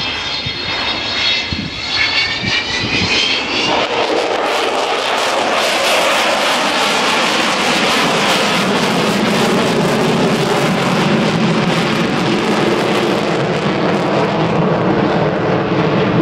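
Avro Vulcan jet bomber's engines passing overhead. A high whine of several tones rises slightly over the first few seconds, then gives way to a very loud roar that builds and holds.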